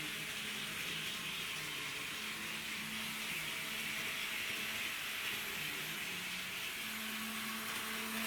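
HO-gauge model diesel railcar running along the track: a steady whirr of its motor, gears and wheels on the rails, with a faint shifting hum underneath.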